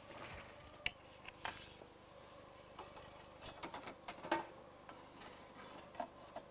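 Faint scattered clicks and soft knocks, about five spread irregularly, over a low steady hum.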